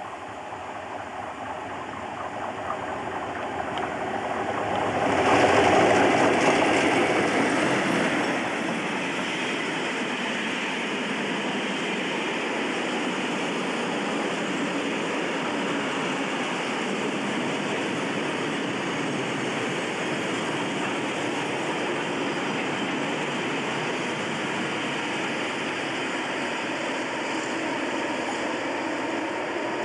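Class 37 diesel locomotive approaching and passing close by with a train of bogie tank wagons. It is loudest about five to six seconds in, then gives way to the steady rolling noise of the tank wagons passing on the rails.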